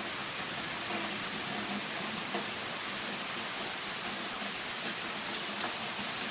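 Thunderstorm rain falling steadily: a dense, even hiss with scattered drop ticks.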